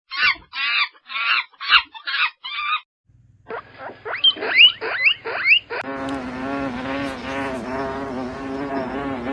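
Animal calls in three kinds one after another: six short calls in quick succession, then a run of quick rising squeaks, then one long wavering call held at a steady pitch.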